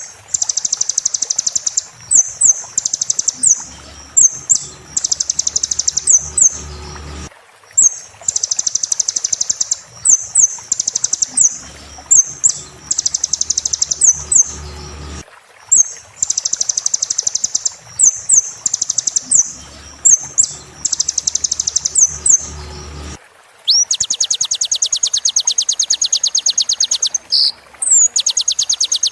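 Sunbird (kolibri) song: loud, fast, high-pitched trills broken by short upward-sweeping notes. A phrase of about seven seconds repeats three times identically, as a looped recording, then gives way to a different, steadier rapid trill near the end.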